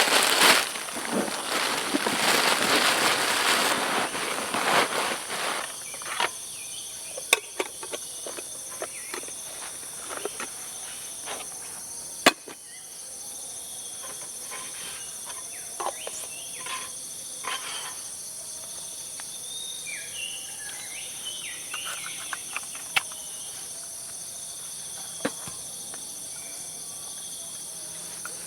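Night insect chorus, crickets keeping up a steady high-pitched drone, with scattered sharp clicks and crackles. A louder noisy rush fills the first five seconds or so, then fades.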